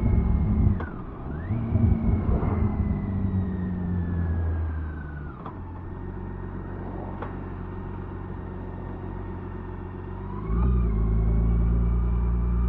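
BMW K1600B inline-six motorcycle engine slowing down: its pitch drops sharply, picks up briefly, then falls steadily as the bike coasts in and settles to a lower, steady run. About ten and a half seconds in, a louder low rumble comes in and holds.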